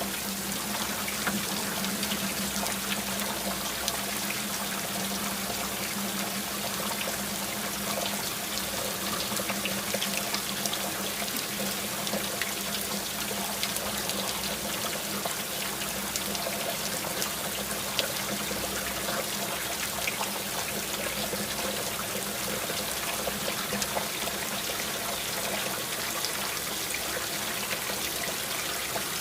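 Steady rain with many small drip ticks and water trickling and running, as from runoff. A faint low steady hum lies underneath for the first two-thirds.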